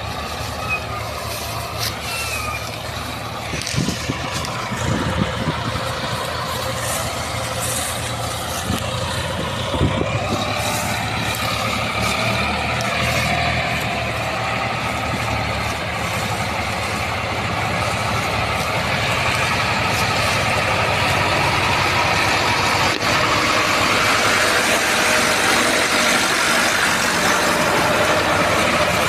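Tractor diesel engine running steadily, growing louder over the second half, with a few sharp knocks in the first third.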